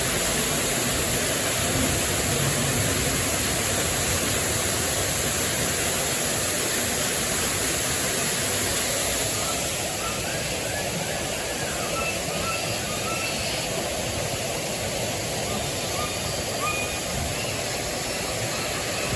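Rainforest ambience of falling water: a steady, even rush like rain or a waterfall. From about halfway it is a little quieter and faint bird chirps come through.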